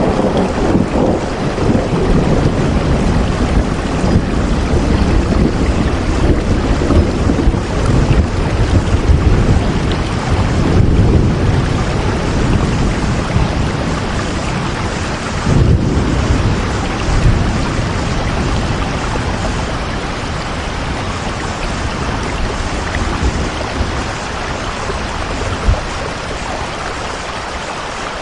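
Steady heavy rain with low rolling thunder that swells several times and dies down toward the end.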